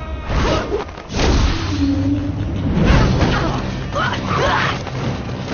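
Film fight-scene soundtrack: music with whooshing swings and thudding impact hits, three heavy strikes standing out.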